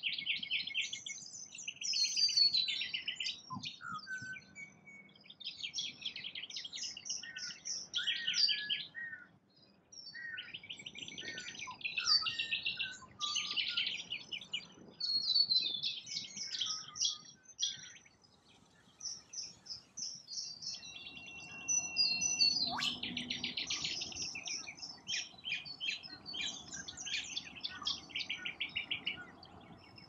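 Birds chirping and trilling in quick runs of high notes, phrase after phrase, with a couple of short pauses.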